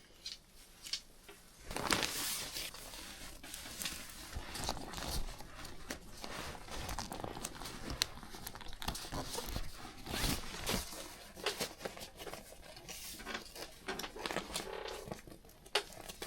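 Crinkling and rustling of bags or packaging being handled, with many small clicks and knocks mixed in; it starts about two seconds in.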